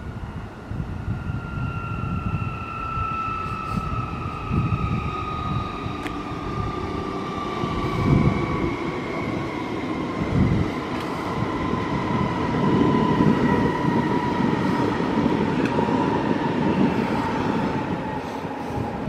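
Electric passenger train running past on the line, its wheels rumbling on the rails and getting louder in the second half as it passes close by. Over the rumble a whine from the train's electric drive falls steadily in pitch throughout.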